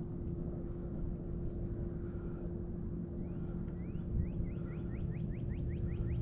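A bird calling a rapid run of short rising chirps, about five a second, starting about three seconds in, over a steady low rumble.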